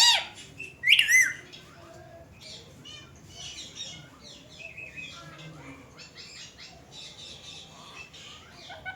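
Indian ringneck parakeets squawking: two loud calls rising in pitch, one at the start and another about a second in, followed by softer, steady chirping and chattering.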